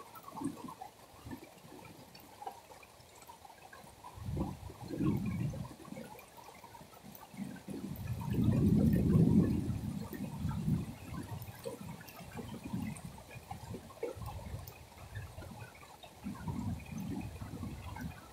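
Rain pouring, its rush of water swelling and easing in uneven surges, loudest a little past halfway.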